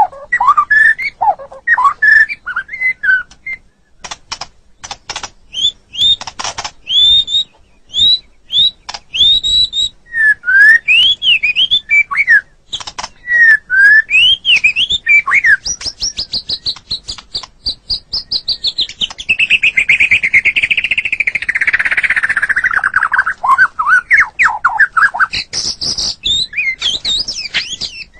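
White-rumped shama (murai batu) singing a long, varied song: sharp clicks and rattling notes mixed with short slurred whistled phrases that rise and fall, then, from about halfway, a fast trill that slides steadily down in pitch over several seconds before whistled phrases resume.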